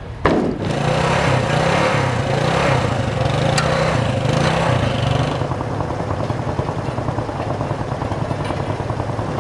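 Small single-cylinder four-stroke engines of 1967 Honda 90 step-through motorcycles running, the pitch rising and falling with light throttle at first, then settling into a steady idle.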